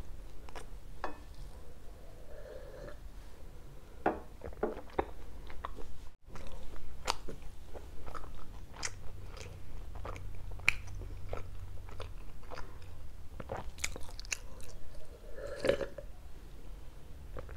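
Close-miked mouth sounds of a person eating: chewing with irregular wet smacks and clicks of the lips and tongue. Near the end come a few sips from a glass of orange juice.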